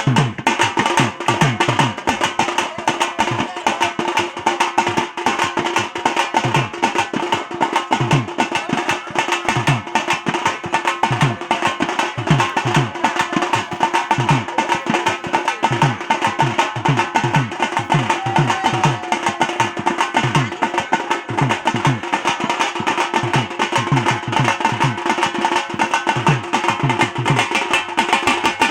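Drum beaten in a fast, dense rhythm for dancing. Its deep strokes drop in pitch after each hit, over some steady held tones.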